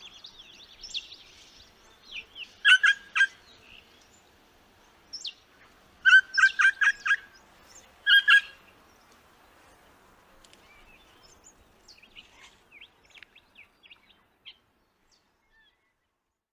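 Crimson rosella calling: short groups of quick, harsh repeated notes, a few about three seconds in, a run of about six near six seconds, and two just after eight seconds. Fainter, high chirps follow in the second half.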